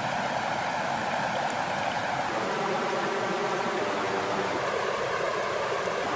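Steady rush of flowing water, an even wash of sound that holds at the same level throughout.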